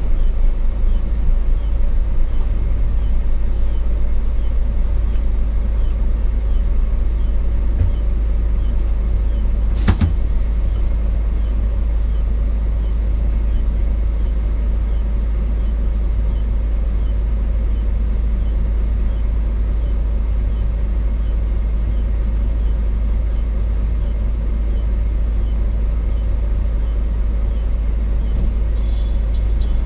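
Hino 500 FM 260 JD truck's diesel engine and road noise heard inside the cab while driving, a steady low rumble. One sharp knock sounds about ten seconds in.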